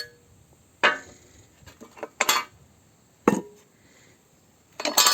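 Metal parts clinking and knocking against each other as they are handled and set down, in about five separate knocks spread over a few seconds.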